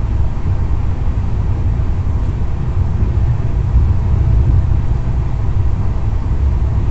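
Express passenger train running along the track: a steady low rumble of the wheels and carriage at speed.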